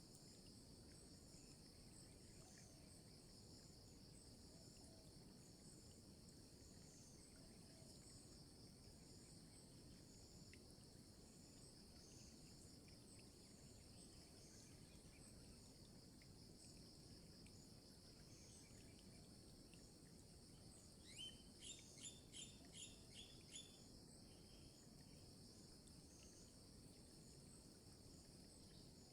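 Faint, steady insect chorus with high buzzing and pulsing notes. About two-thirds of the way through comes a quick run of about seven sharp chirps from a bird.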